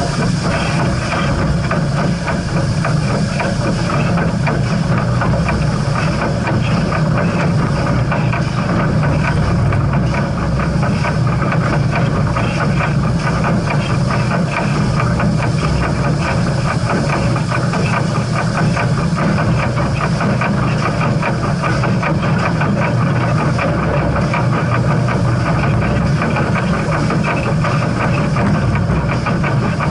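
Steam train running steadily: a continuous loud rumble with a fast, even rattle and a high noisy hiss over it.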